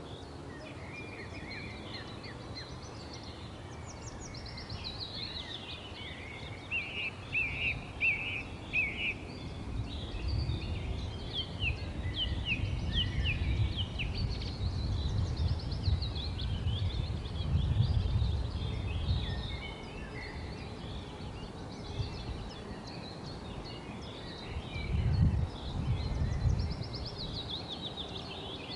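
Several small birds chirping and trilling, with many short calls overlapping. Bursts of low rumble run under them through the middle and latter part, loudest about two-thirds of the way in and again near the end.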